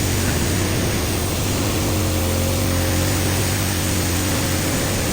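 Touchless automatic car wash machine spraying high-pressure water jets onto a car: a loud, steady hiss over a steady low hum.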